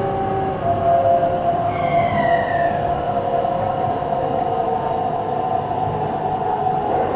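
Cabin running sound of Meitetsu 300-series electric train 317F: steady wheel and track rumble with the motor's tones held steady. About two seconds in, a short higher tone falls in pitch as the train begins slowing for a station stop.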